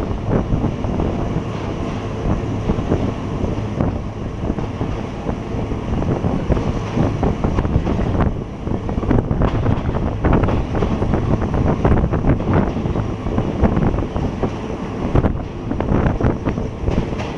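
Passenger train running along the track: a steady wheel-and-rail rumble with dense clattering, with wind buffeting the microphone.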